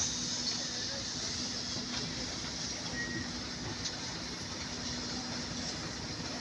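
Locomotive running steadily while shunting freight wagons: a continuous low engine hum with a high hiss over it and a few faint clicks.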